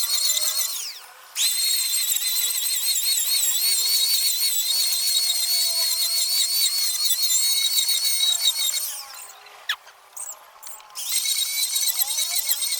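High-speed electric power tool running with a high, wavering whine. It winds down about a second in and restarts almost at once, winds down again after about eight seconds with a falling whine, and starts up again near the end.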